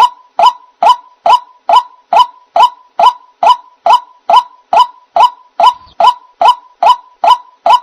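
White-breasted waterhen (ruak-ruak) calling: a monotonous run of short, identical notes repeated evenly about twice a second.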